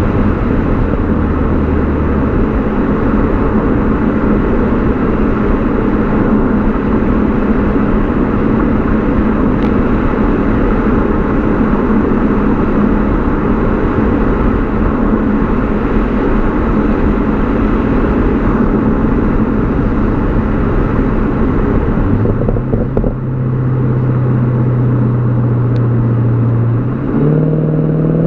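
BMW E39 540i's V8 exhaust while driving, heard from the rear with heavy road and wind noise. About three-quarters of the way through, the exhaust settles to a steady low hum, and near the end its pitch starts to rise as the car accelerates.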